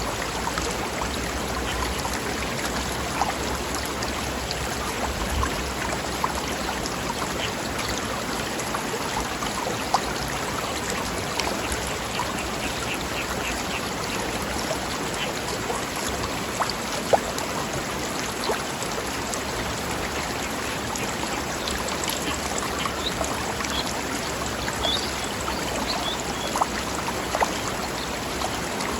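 Mountain stream running over rocks: a steady rush of water with small splashes and gurgles. Faint bird chirps come through now and then.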